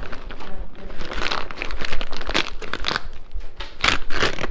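Something being crumpled and crinkled by hand, a crackly rustling that comes in several bursts.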